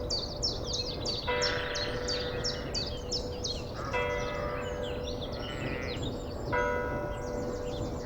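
A bell tolling slowly, struck three times about two and a half seconds apart, each stroke ringing on and fading. Birds chirp in quick series of high, downward-sliding notes over a low, steady background rumble.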